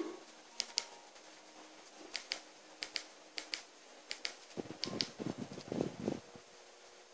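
Fire in a fireplace crackling: sharp, irregular pops, often in quick pairs, with a brief rumbling flutter about two-thirds of the way through.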